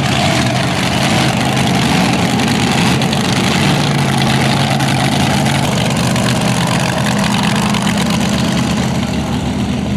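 Loud, steady running of a big pulling-tractor engine, its pitch stepping up slightly about seven seconds in.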